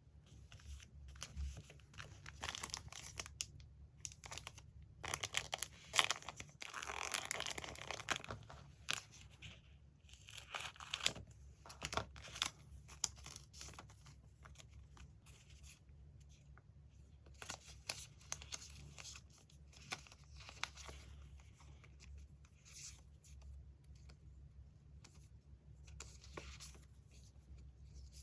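Paper being torn and crinkled by hand in irregular strokes, heaviest a few seconds in, then lighter rustling handling.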